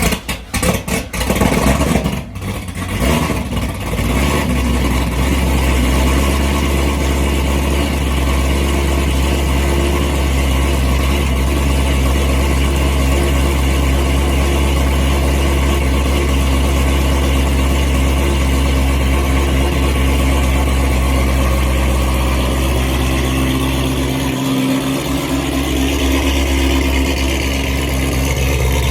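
Modified Corvette ZR1 V8 on E85 fuel, with aftermarket ATAK exhaust, ported heads and a performance cam, cold starting: it cranks, catches and flares up in the first few seconds, then settles into a loud, steady cold idle. About 24 seconds in the note dips briefly and then carries on.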